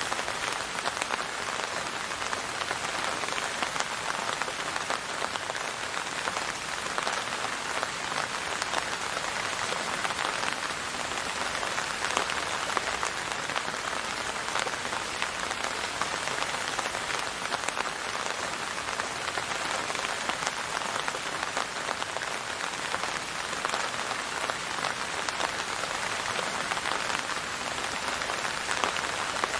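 Steady rain falling and pattering on a surface, an even dense hiss of many fine drops with no thunder.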